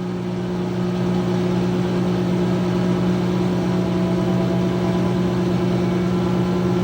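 2006 GE Profile Harmony top-loading washing machine spinning: a steady motor and drum hum that builds slightly over the first couple of seconds and then holds. The machine keeps slowing and spinning back up during this spin and shakes a good amount.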